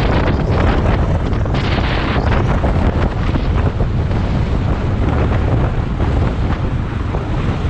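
Wind buffeting the microphone: a loud, steady rumbling roar that drowns out other sound.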